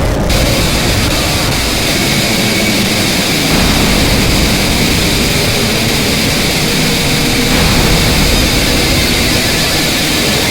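A loud, steady wash of roaring noise with a few held high tones, shifting in blocks about every four seconds.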